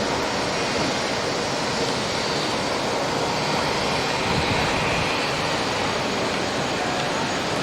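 Jet aircraft engine noise at an airport: a steady, even rushing sound that holds at one level without rising or falling.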